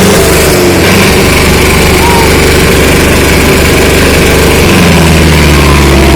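Sonalika 750 tractor's diesel engine running loud and steady; about five seconds in its note drops a little and the low hum grows heavier.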